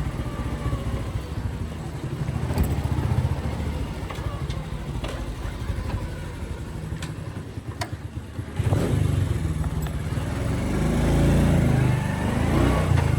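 Motorcycle engine running while riding along a street. About two-thirds of the way through, a louder engine sound comes in suddenly and swells for a few seconds.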